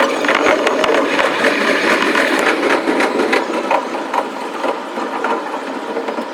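Running noise of a JR East electric commuter train heard from the front of the cab, played back at five times speed, so the wheel and rail clatter becomes a fast, dense run of clicks and rattling over a steady rush. The noise eases somewhat toward the end.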